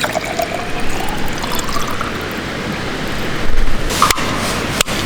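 Liquid poured into a container, its pitch rising over about two seconds as the container fills, followed by a short louder rush and a few sharp knocks near the end.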